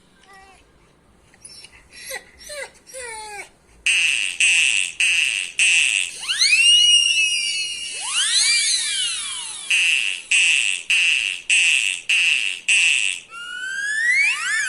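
Electronic sound effects played back: a loud high beep repeating about twice a second, broken in the middle by swooping tones that rise and then fall. Short rising chirps come near the end, and a few faint short gliding calls are heard in the first few seconds.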